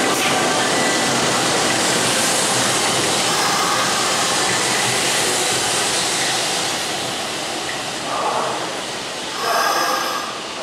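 Hanshin 8000 series electric train running along the platform as it pulls in, a steady rumble of wheels on rail that eases off as it slows, with two short louder bursts near the end.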